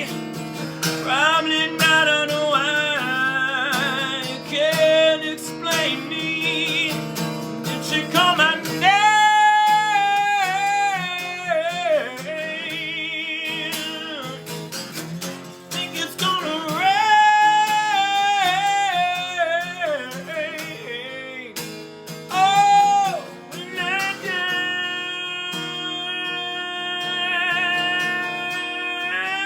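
A man singing with acoustic guitar accompaniment, his voice holding long notes with vibrato.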